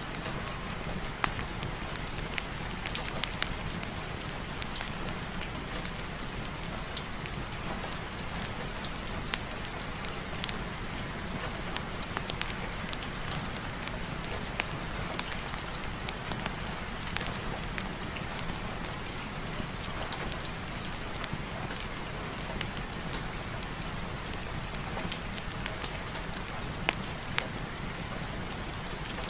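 Steady heavy rain falling on a surface, a constant hiss with scattered sharp drop ticks.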